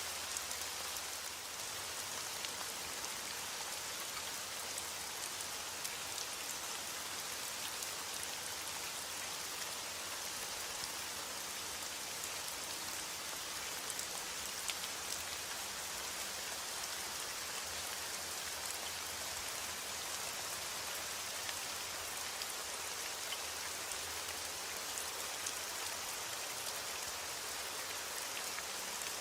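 Steady rain falling: an even hiss of drops with scattered sharper drop ticks, and no thunder.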